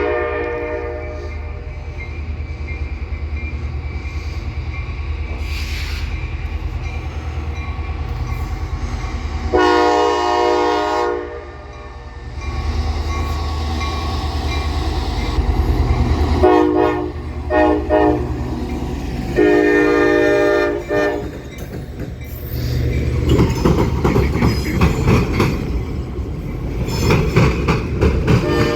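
Diesel locomotive air horn sounding several blasts, the multi-tone chime typical of a grade-crossing signal, over the steady rumble of the locomotive's engine. The horn gives long blasts near the start, about ten seconds in and about twenty seconds in, with two short ones just before the last. In the last few seconds the train's wheels clatter rhythmically over the rail joints as it passes.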